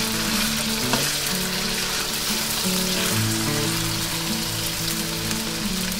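Pork strips deep-frying in hot oil in a wok, a steady sizzle, with background music playing over it.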